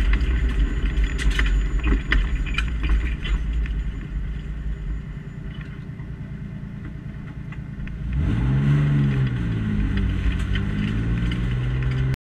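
Alfa Romeo 156 3.2 V6 engine heard from inside the cabin, with a few sharp clicks in the first three seconds. The sound eases and grows quieter for a few seconds as the car slows, then the engine revs up and back down about eight seconds in and settles to a steady note. It cuts off suddenly near the end.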